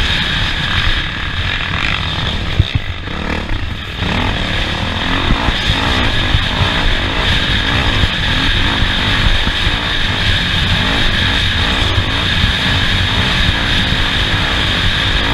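Off-road race vehicle's engine running hard, its pitch rising and falling as it revs up and down over the course. It eases briefly about two to four seconds in.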